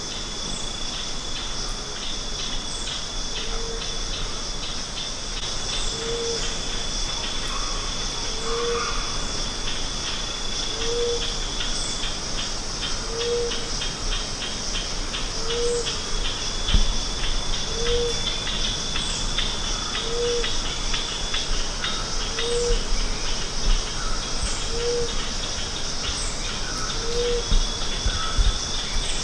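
Emerald dove calling over and over, one short low hoot about every two and a half seconds, above a steady high chorus of crickets and rapid clicking.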